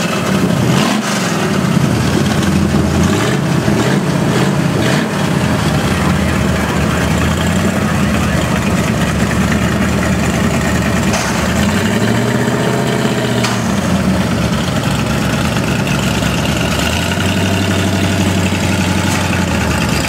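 Shelby GT350 Mustang's V8 with the exhaust opened up, running at low revs as the car is driven slowly. There are several short blips of the throttle in the first few seconds and another rise and fall in revs around twelve seconds in; the rest is a steady idle.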